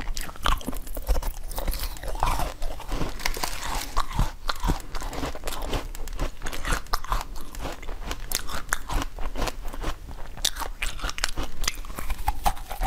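Close-up biting and chewing of strawberries, with many quick, crisp crunches and wet chewing throughout.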